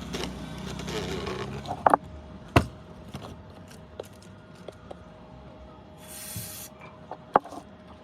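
Sharp clicks and taps of small tools and phone parts being handled, a few in all, the loudest a little over two seconds in and near the end. A short hiss comes about six seconds in, over a faint steady hum.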